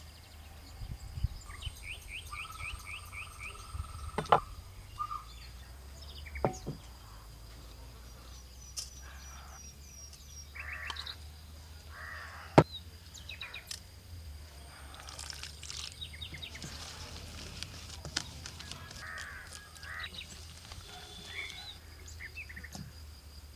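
Outdoor ambience of birds chirping and calling, with crows among them, over a steady low hum. A few sharp knocks cut through, the loudest about halfway.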